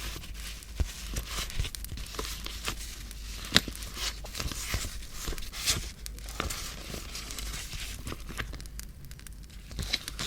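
Paper being handled for scrapbooking, rustling and crinkling with scattered sharp crackles and ticks throughout.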